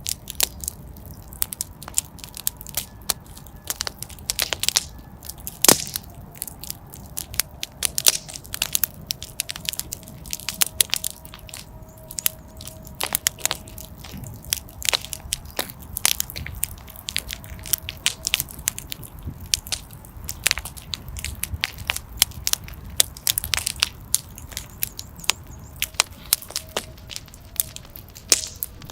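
Wood fire crackling in a fireplace: irregular sharp pops and snaps, many a second, over a low steady rumble of the flames. A faint thin whistle sounds through the middle.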